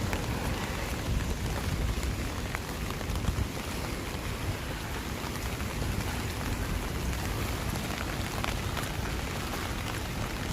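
Steady heavy rain falling, with many close, separate drops ticking on a surface and a low steady rumble underneath.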